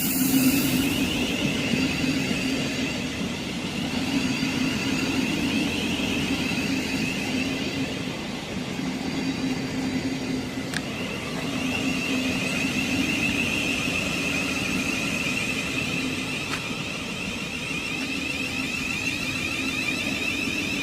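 Thameslink Class 700 Desiro City electric multiple unit coming into the platform. It gives a high, steady electrical whine that fades and comes back, over a low running hum, with a short hiss at the start and a couple of faint clicks.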